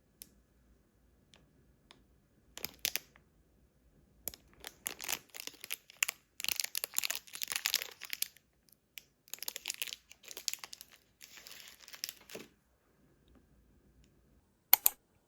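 Crinkling and rustling in uneven bursts, like something being handled and crumpled, with a single sharp click near the end.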